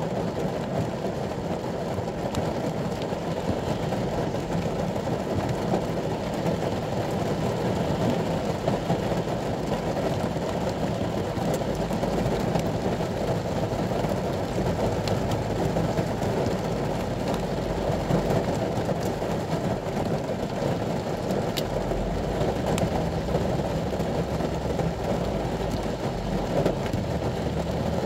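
Steady rain falling on a ute's cab, heard from inside as a dense, even low rumble with a few sharper drop taps.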